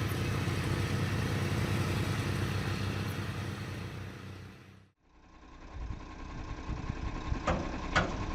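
Heavy truck engine running steadily for about five seconds, then fading out. A lower, duller engine rumble follows, with a few sharp knocks near the end.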